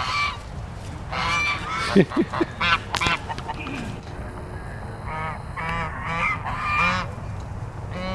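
Chinese geese honking, a flock calling in bursts of quick repeated honks, with a lull in the middle and a few sharp clicks.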